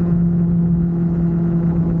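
Motorcycle engine running at a steady speed, a loud, even drone that holds one pitch.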